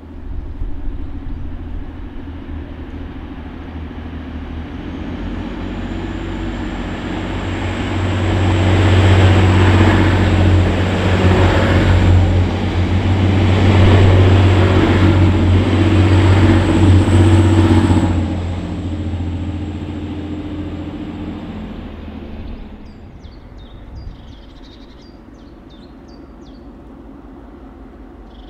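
A Class 185 diesel multiple unit passing close by, its engine drone and wheel-on-rail noise building to a peak as it goes past and then fading, with a thin, steady, high whine while it is near. Birds chirp near the end.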